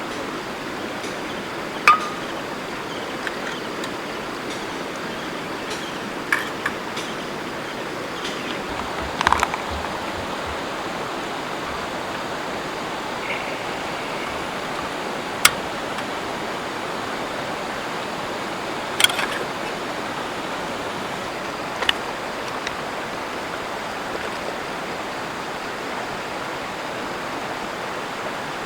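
River water running steadily, with a few sharp clicks and knocks spread through it.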